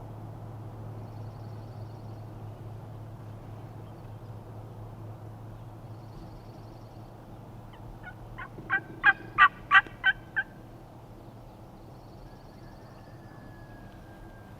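A wild turkey gobbler gobbling once about nine seconds in: a quick rattle of about six loud notes lasting under two seconds. The gobble tells the hunters the tom sounds like he is getting a lot closer.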